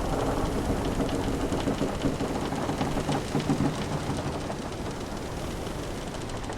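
Wooden ship timbers creaking in long, low groans over a steady wash of ocean waves. The creaking is strongest in the first three to four seconds, then eases.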